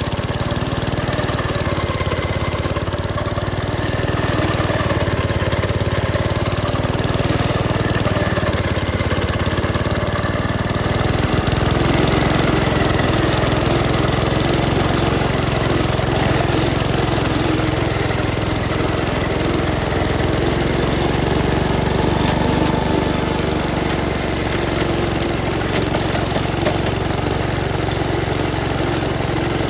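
Gravely Commercial 10A walk-behind tractor engine running steadily with its Dogeater snowblower attachment working. About eleven seconds in, the engine note shifts and grows a little fuller.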